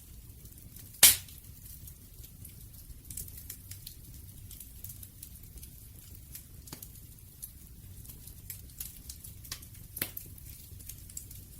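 Wood fire crackling in scattered sharp clicks, with one loud pop about a second in and another smaller pop near the end, over a low steady rumble.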